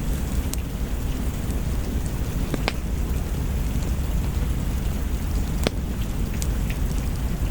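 Steady rain with a deep, constant rumble underneath. A few sharp, isolated pops rise above it now and then, like the crackle of a wood fire.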